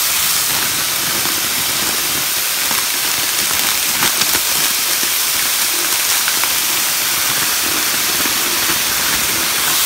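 Chicken and diced onions frying in a pan, a steady sizzle. A few light clicks about four seconds in as chopped mixed peppers are tipped into the pan.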